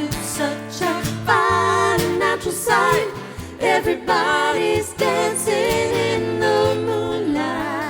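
Trio of voices singing in close harmony over a steady acoustic guitar accompaniment, ending on a held chord that starts to fade away near the end.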